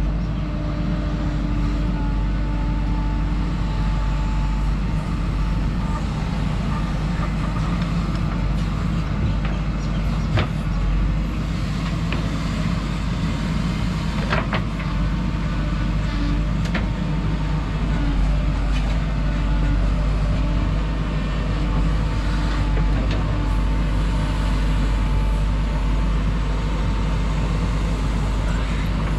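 JCB 3DX backhoe loader's diesel engine running steadily while the machine works soil, with a few sharp metallic knocks around the middle.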